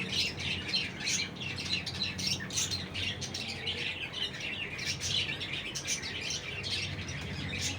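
Many small birds chirping rapidly and continuously, a dense chatter of short high calls, over a steady low hum.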